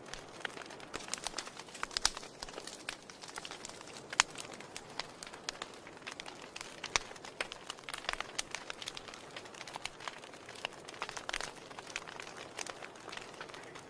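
Wood fire burning in a fireplace: irregular crackles and sharp pops over a soft, steady hiss, with the loudest pops about two and four seconds in.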